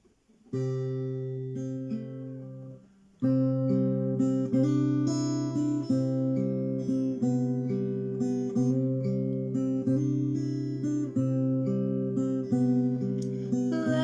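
Acoustic guitar playing an intro: a first chord rings out about half a second in, then after a short pause about three seconds in, steady strummed chords follow in an even rhythm.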